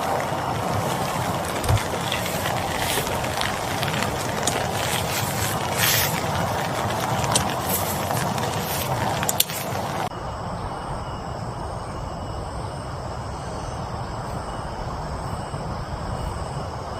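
Heavy rain falling, with many drops striking close by. About ten seconds in the sound changes abruptly to a steadier, duller rain hiss.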